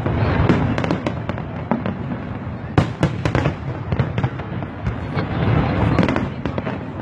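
Fireworks display: a rapid, continuous run of shell bursts, with sharp bangs over a steady crackle and low rumble. The sharpest bang comes about three seconds in.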